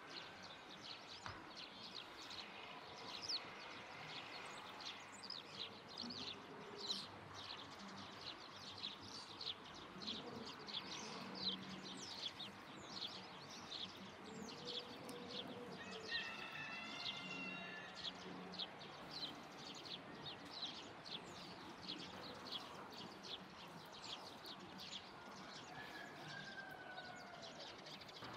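Birds chirping: rapid, short, high chirps repeating two or three times a second throughout, with a different, longer call about halfway through.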